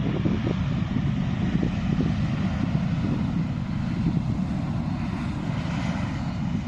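Jet airliner on approach to land, its engines a steady low rumble with a rushing hiss that swells about five seconds in.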